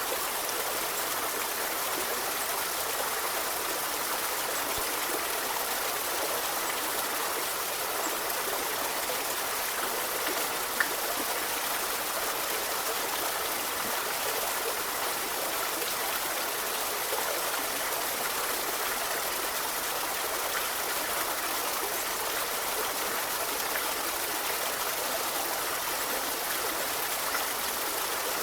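A forest river flowing with a steady, even wash of running water. One brief sharp click comes about eleven seconds in.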